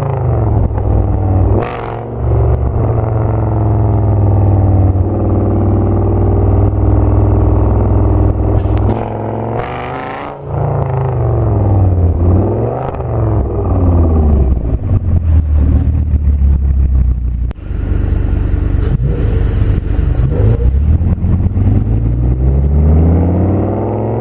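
Audi S8's V10 breathing through a Meisterschaft aftermarket exhaust, outrageously loud, pulling hard under acceleration. The pitch climbs and falls over and over, with a few abrupt drops where the revs fall away, as on gear changes or lifting off.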